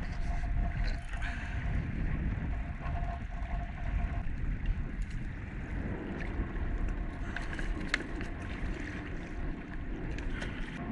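Strong wind buffeting the microphone, a steady low rumble, with a faint steady hum for the first few seconds and a few sharp handling clicks later on.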